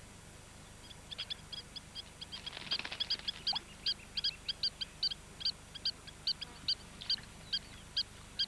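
Spur-winged plover giving a rapid run of short, sharp, high-pitched alarm calls, two to three a second, starting about a second in: a nesting plover's alarm at intruders near its nest.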